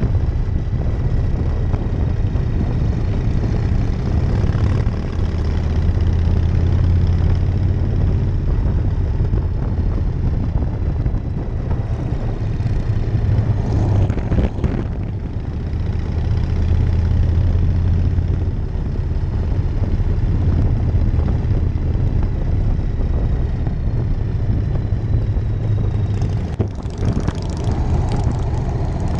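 1999 Harley-Davidson Night Train's V-twin engine running steadily under way, with a deep, constant drone. The sound dips briefly twice, about halfway through and near the end.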